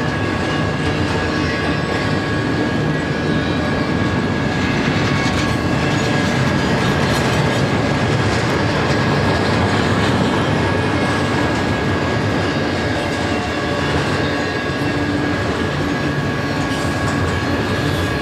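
Double-stack container train rolling past: the steady rumble and rattle of loaded well cars on the rails, with a thin, high, steady whine held throughout.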